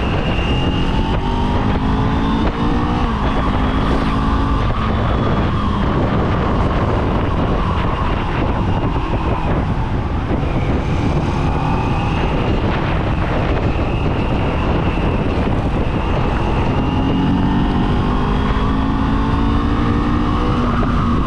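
Kawasaki Z400's parallel-twin engine under way on the road: the revs climb about a second in and drop sharply near three seconds, hold through the middle, then build again over the last few seconds, with wind noise on the microphone.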